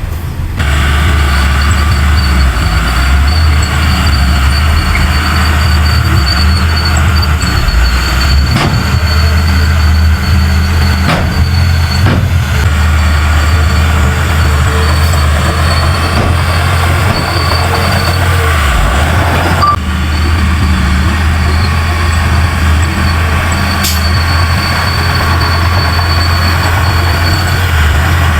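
Heavy diesel engine of a large Komatsu bulldozer running hard under load, a loud steady drone with a thin high whine over it and a few metallic clanks.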